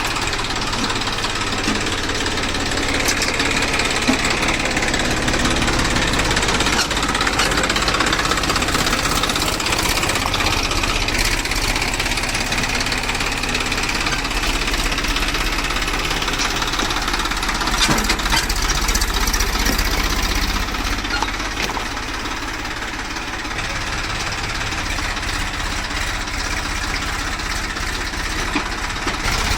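Massey Ferguson tractor's diesel engine running steadily, with no large changes in speed.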